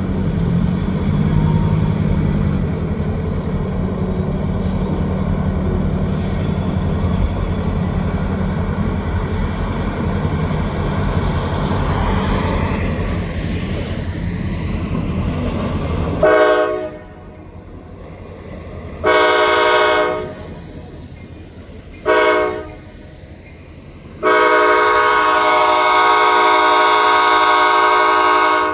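Low rumble of a passing freight train, then a diesel locomotive's air horn sounding four blasts, the last one held for about four seconds.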